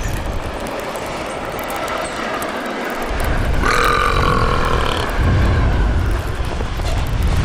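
Railway sound effects of a train running with a steady rumble. Near the middle comes a high, slightly falling tone with overtones, about a second and a half long.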